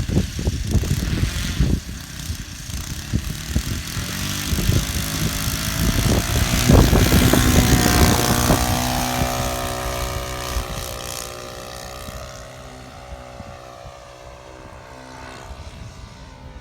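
Model Spitfire's O.S. GF40 four-stroke gasoline engine and propeller running as the plane flies by: it grows louder to a peak about seven to eight seconds in, then fades away. Strong wind buffets the microphone in the first few seconds.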